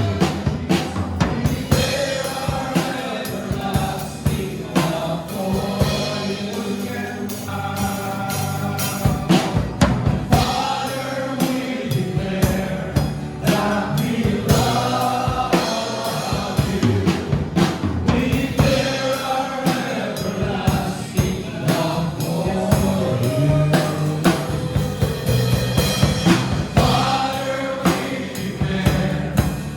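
A gospel worship song: a group of voices singing together over a band with a drum kit keeping a steady beat.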